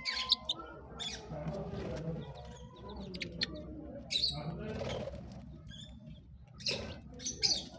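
Parrots giving short, scattered chirps and squawks, with a few sharp clicks among them.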